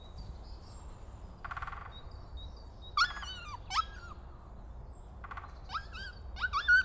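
A dog whining: a string of high whimpers that slide up and down in pitch, bunched about three seconds in and again near the end.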